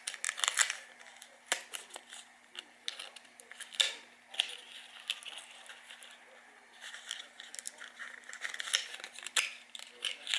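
Close handling of small items: irregular sharp clicks and taps mixed with short crinkling and rustling, with a faint steady hum underneath.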